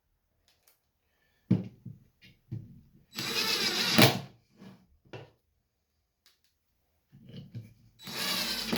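Knocks and clicks of a bowl blank being fitted onto a wood lathe. About a second of rasping mechanical noise comes midway and ends in a sharp knock, and another noisy stretch follows near the end.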